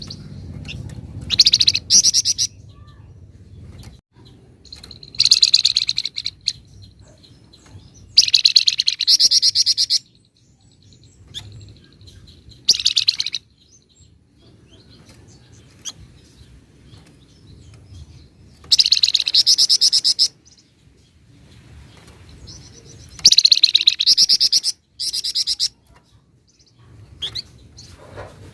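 A songbird kept as a cagebird under the name 'flamboyan' sings in rapid, drill-like trilling bursts. Each burst lasts one to two seconds and comes every few seconds, with faint chirps in between: the bird is in full song.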